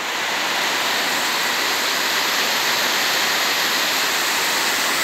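Heavy rain falling on a street and surroundings: a steady, even hiss.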